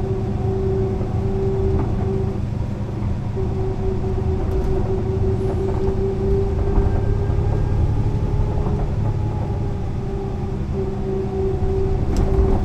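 Mercedes-Benz O 405 NÜ low-floor bus running along the road: a steady low rumble with a held whine over it that drops out for about a second a couple of seconds in and again briefly near the end. There is a short click near the end.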